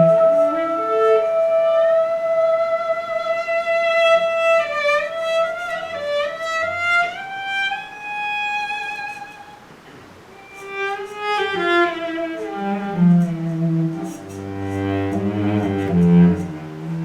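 Instrumental passage on bowed strings. A violin holds a long high note, bends it, then plays a falling run. Past the middle, lower bowed notes join underneath.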